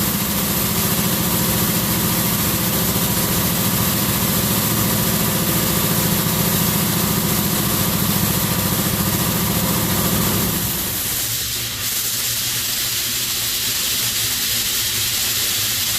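Wash World Razor Edge touch-free car wash running through its sealant application: a steady low pump hum over the hiss of spray. About ten and a half seconds in, the hum cuts out and the spray hiss carries on.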